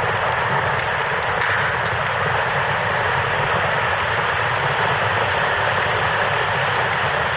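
Steady rushing of a river, with a campfire crackling faintly over it.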